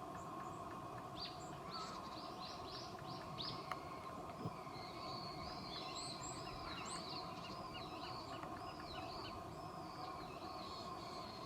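Small songbirds calling: a scatter of quick high chirps, then from about halfway a fast, continuous twittering chatter, over a steady background hum.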